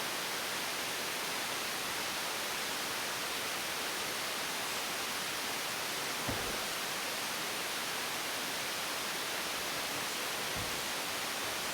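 Steady, even hiss of background noise, with one faint knock about six seconds in.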